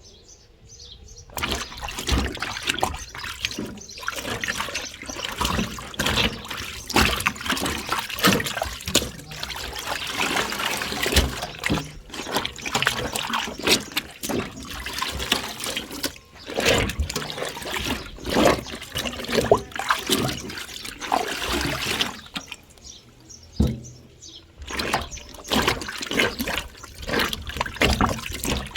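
Water running and splashing in an uneven stream, pausing for about two seconds near the end before starting again.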